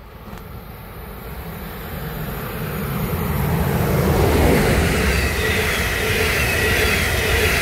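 Train approaching and passing close by: a rumble of wheels on the rails that grows steadily louder over the first four seconds or so, then holds, with a thin high ringing tone coming in during the second half.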